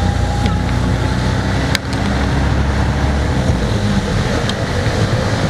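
A road vehicle on the move, heard from on board: a steady low engine and road rumble with wind noise. One sharp click comes a little under two seconds in.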